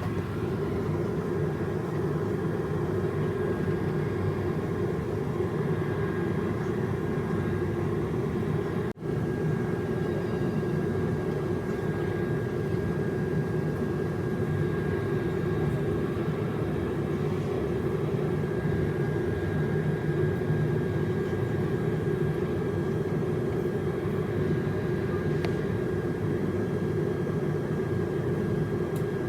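Steady rumble of a moving passenger train heard from inside the coach, with a faint constant whine above it and a momentary break about nine seconds in.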